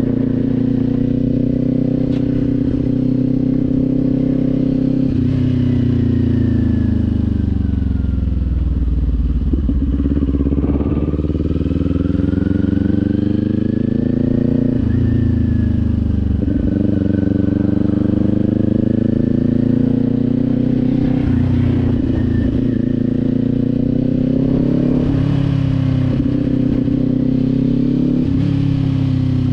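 Kawasaki Z400's parallel-twin engine running under way. It holds a steady note, falls in pitch as the bike slows, then climbs again with sudden drops at about 15 and 16 seconds in as it shifts up. It then runs on with smaller rises and falls in speed.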